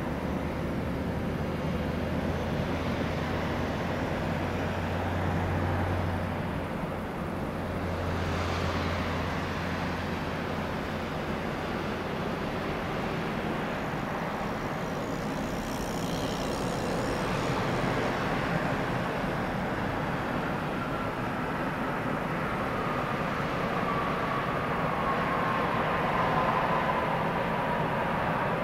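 Boeing 737-800 airliner's CFM56 jet engines on landing approach: a steady rushing rumble, with a whine that slowly falls in pitch over the last several seconds.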